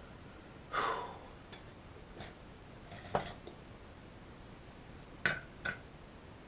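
A handful of scattered short clicks and clinks from hand tools during desoldering work at a bench, with a brief breathy hiss about a second in and two sharp clicks about 5 seconds in.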